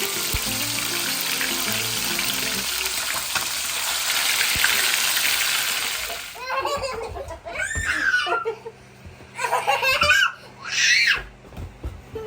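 Chicken wings sizzling as they fry in hot oil, a steady hiss that cuts off suddenly about six seconds in. Then a baby laughs and squeals in a few short bursts.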